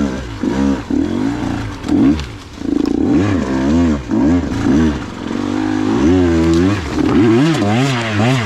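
KTM 125 XC two-stroke dirt bike engine revving up and down over and over, the throttle blipped about once or twice a second, with a couple of short steadier stretches.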